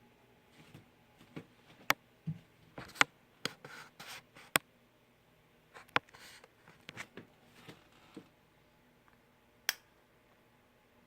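B1418DC DC electric fan's oscillation pivot at the shaft centre making abnormal noise as the head swings: irregular sharp clicks and short scraping rubs, over a faint steady motor hum.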